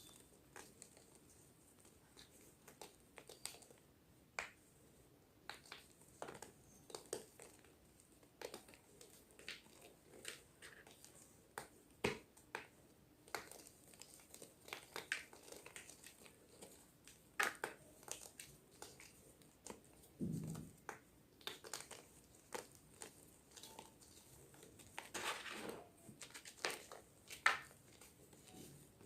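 Fresh gym chalk being crunched and crushed up close: quiet, sharp crackles at an irregular pace, with a longer crumbling run near the end.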